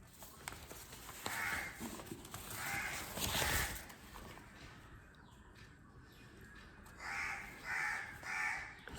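A bird calling in the background: a few short calls in the first half, then a run of three short calls near the end.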